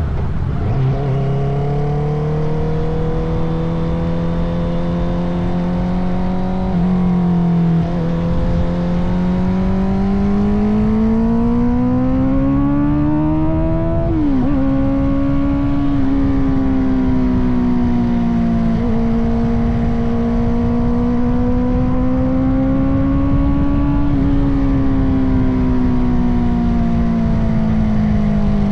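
Honda CBR650R inline-four engine through an Akrapovic titanium exhaust, ridden on the road. The engine note climbs slowly under acceleration and briefly dips at gear changes, with the clearest upshift about halfway through, then settles into a steady cruise that eases off slightly near the end.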